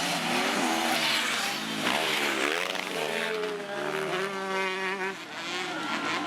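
Motocross bike engines revving, their pitch rising and falling, with one engine holding a high pitch for a couple of seconds around the middle.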